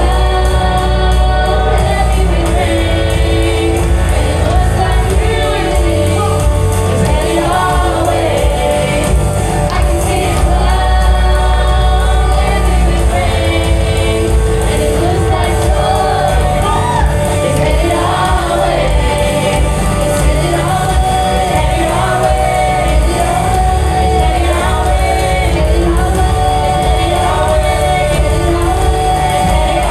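Gospel-style praise music: a choir or worship singers singing over a band with strong steady bass, loud and continuous.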